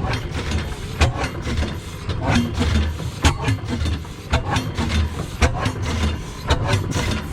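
Antique engine running, with a sharp bang about once a second over a steady low chugging.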